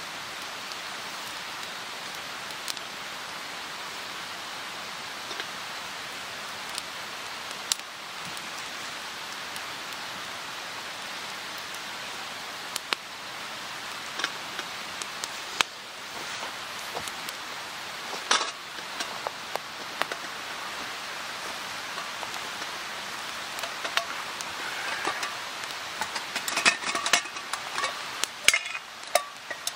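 A steady outdoor hiss, like rain or running water, with scattered sharp clicks and clinks on top that come thicker near the end.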